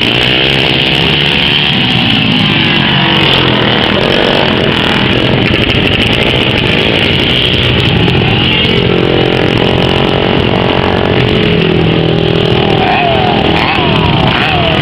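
Several racing engines running hard during hot laps, the pitch rising and falling as they pass and rev, with a quick up-and-down revving near the end.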